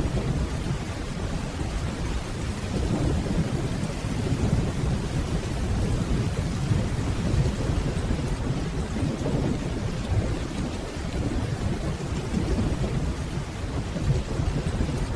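Steady rainfall under a continuous low rumble of distant rolling thunder that swells and fades without any sharp crack.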